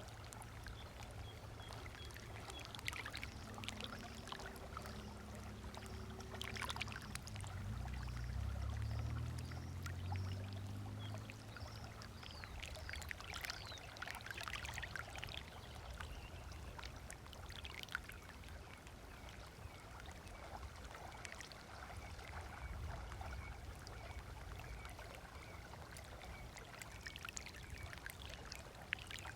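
Small waves lapping on a lakeshore, with birds chirping throughout. A passing boat's engine hums low under it, swelling about eight to ten seconds in and fading away by about twelve seconds.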